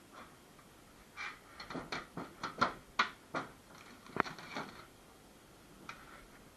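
A run of light clicks and knocks, with a few sharper taps in the middle, from small hard objects being handled.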